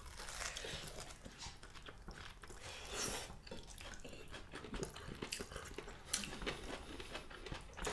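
Close-up eating sounds of people chewing food by hand: soft wet mouth clicks and smacks scattered throughout, with a slightly louder bite about three seconds in.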